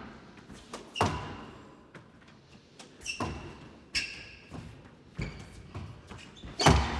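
Squash rally: a hard rubber squash ball struck by rackets and smacking off the court walls, sharp cracks roughly every second, the loudest near the end.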